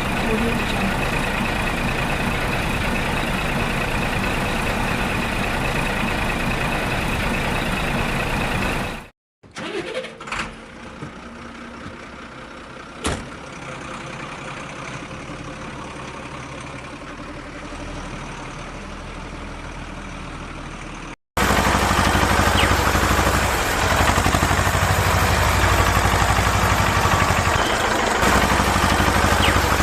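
Vehicle engine noise running steadily, broken by two abrupt cuts into three separate stretches; the middle stretch is quieter, with one sharp knock, and the last is the loudest, with a heavy low rumble.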